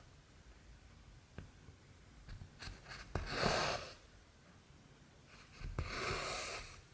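Cotton embroidery thread drawn through cross-stitch fabric twice, each pull a swish lasting about a second that starts with the small click of the needle going through the cloth.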